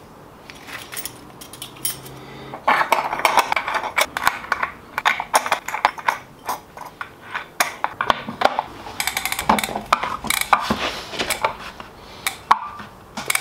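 Metal bicycle and wind-trainer parts being handled: a fast, irregular run of clinks and clicks that starts about three seconds in, with a quieter patch near the end.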